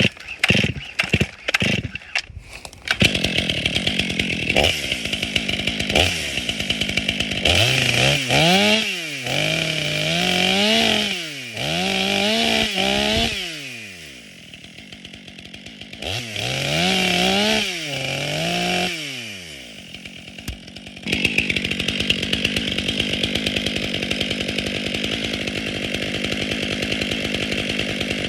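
Brand-new Stihl MS 500i fuel-injected two-stroke chainsaw being started: a few sharp bursts, then it catches about three seconds in and runs. It is revved up and down in a string of quick blips, drops back to idle, and is blipped again. From about two-thirds through it is held steady at high speed.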